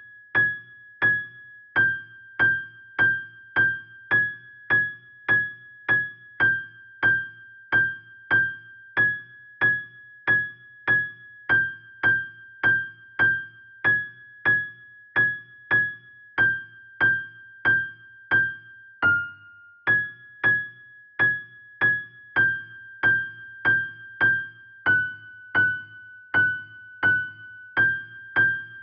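A single high note near G6 played over and over on a keyboard, about one and a half strikes a second, each note ringing briefly and dying away. The pitch shifts slightly now and then and dips lower once about two-thirds of the way through.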